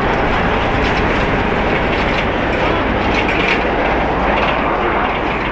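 Jet airliner engines running, heard as a steady, dense rush of noise with no breaks.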